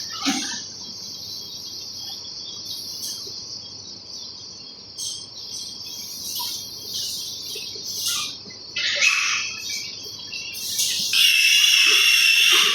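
Outdoor insect chorus, a steady high shrill drone like crickets, with scattered bird chirps. About eleven seconds in, a louder shrill trill joins.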